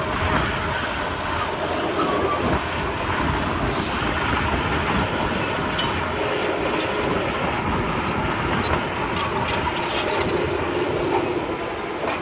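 Komatsu D31P crawler bulldozer working, its diesel engine running steadily with scattered clicks and clanks over it.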